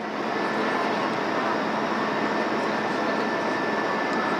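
Steady cabin noise of an Airbus A321-200 on approach: the even rush of its engines and airflow, with a thin steady whine running through it.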